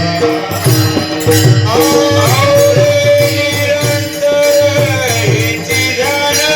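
Warkari devotional bhajan: a man singing a traditional melody in long held notes, over a mridang (pakhawaj) beating a steady rhythm and jingling hand cymbals.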